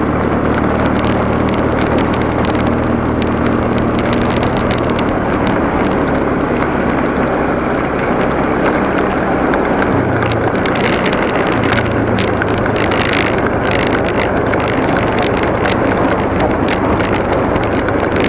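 Motorcycle engine running steadily while riding, with wind noise on the microphone; the engine note shifts slightly about ten seconds in.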